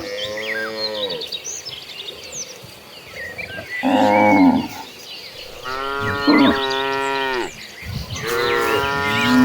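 Cattle mooing: four long calls one after another, each rising then falling in pitch, the one about four seconds in rougher and louder. Short high chirps sound faintly in the background.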